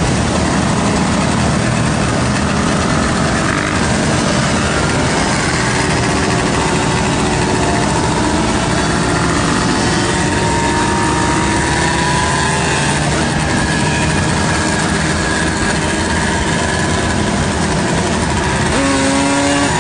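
Motorcycle and quad engines running in a moving group, heard from the seat of a riding motorcycle, under a steady rush of wind on the microphone. Some engine pitch rises and falls through the middle as riders work the throttle.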